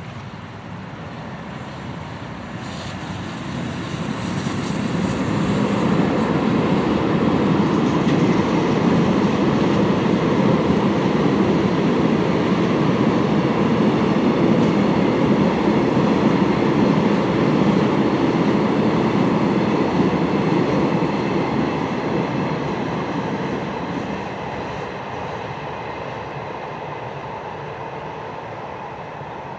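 EH500 electric locomotive hauling a freight train past. The noise builds as the locomotive comes by, then the wagons' wheels clatter on the rails in a long steady rumble, fading over the last several seconds as the train moves away.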